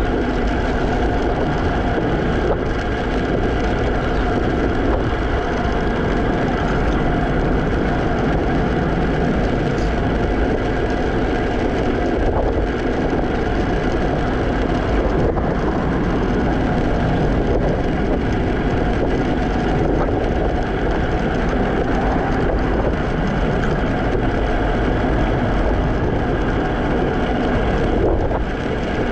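Steady rolling and wind noise from a moving Segway Ninebot electric scooter, as picked up by a GoPro mounted on it, with a faint steady hum running through it.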